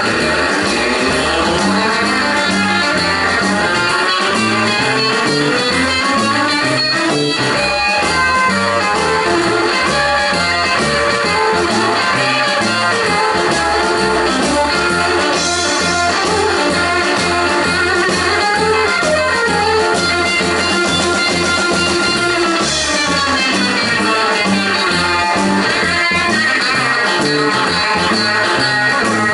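Live rock and roll band playing an instrumental passage: an electric guitar lead plays fast runs up and down over bass and drums.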